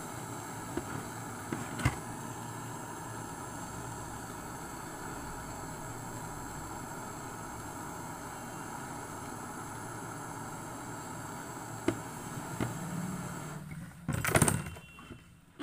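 Steady mechanical whirring with a few light clicks, stopping near the end, followed by a brief loud rattle.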